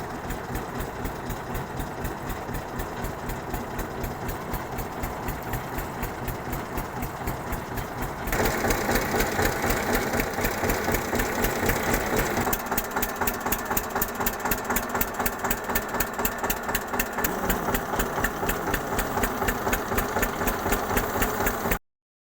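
Tractor engine running with a fast, regular knocking beat, getting louder and harsher about eight seconds in. It cuts off suddenly near the end.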